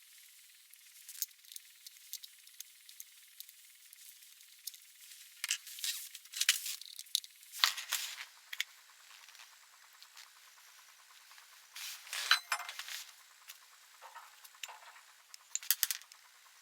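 Scattered light clicks and clinks, like small hard objects tapping together, in a few short bunches about a third of the way in, past the middle and near the end, over a faint hiss.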